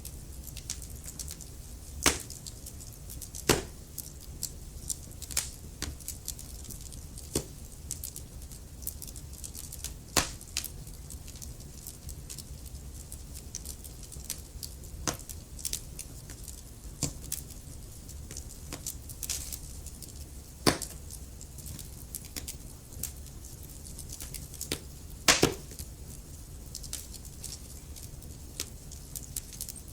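Wood fire crackling in a fireplace: a constant scatter of small sharp crackles over a low steady rumble, with a handful of louder single pops spread through.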